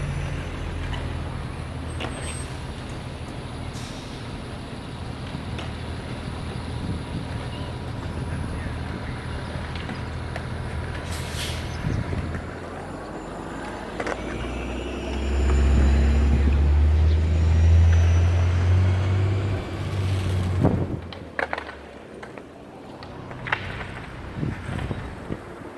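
City street traffic with a heavy vehicle's engine rumbling, loudest for several seconds past the middle, then dropping away.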